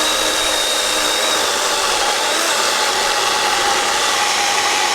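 DeWalt battery-powered chainsaw running steadily, its chain cutting through hardwood eucalyptus timber.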